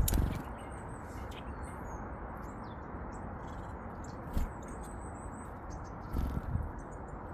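Small birds chirping: short, high calls scattered over a steady low hiss, with a few dull low thumps near the start, about four seconds in and around six seconds in.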